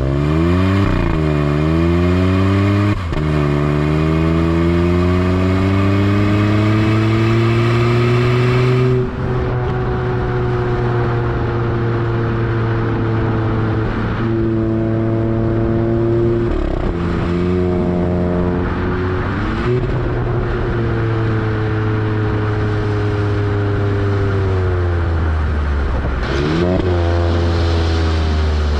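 Hyundai i20 N Line's three-cylinder turbo petrol engine and sport exhaust pulling under acceleration. The engine note climbs steadily and drops sharply at gear changes about 3 and 9 seconds in, with more shifts and short rises in pitch later on.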